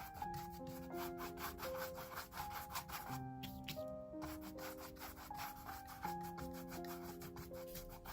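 Paintbrush scrubbing acrylic paint onto canvas in quick, repeated scratchy strokes, several a second, over soft piano background music.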